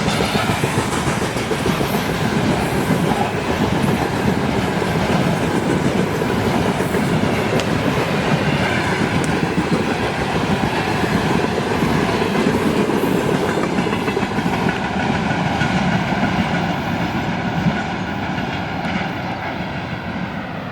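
Freight train wagons rolling past, steel wheels clattering on the rails in a loud, steady rumble. Near the end it eases and turns duller as the train draws away.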